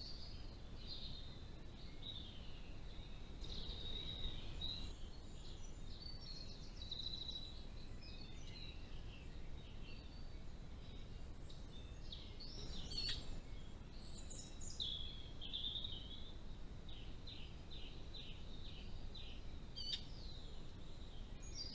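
Wild birds singing and calling, many short chirps and whistles, with a run of quickly repeated notes about three quarters of the way through, over a steady low background hiss.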